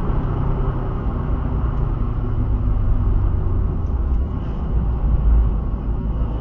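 Car engine running steadily, a low drone with little change in pitch.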